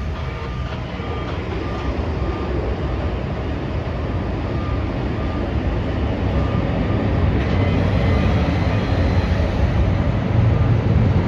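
Steady low vehicle rumble that slowly grows louder.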